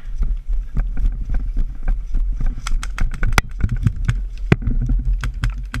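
Irregular sharp clicks and knocks, several a second, over a steady low rumble: an airsoft player running for cover under covering fire, with footfalls and gear jostling mixed with airsoft gun shots.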